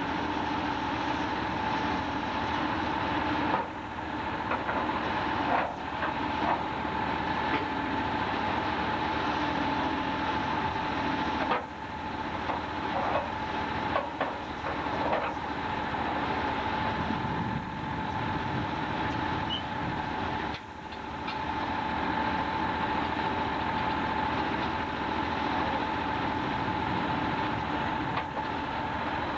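Sawmill machinery running steadily: a continuous whine over a mechanical rumble, with brief drops in level about every eight to nine seconds.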